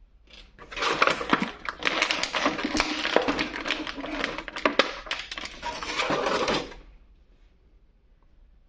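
Action-figure packaging being handled: plastic crinkling and crackling with many sharp clicks for about six seconds, then stopping.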